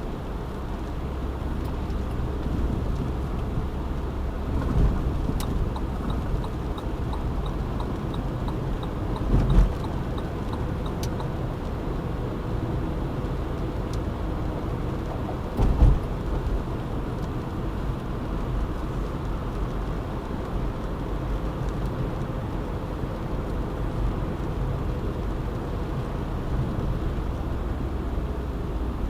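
Road noise inside a moving car: a steady low rumble of tyres and engine, with two heavier thumps, about a third and about halfway through. A light, regular ticking of about two a second runs for some five seconds in the first half.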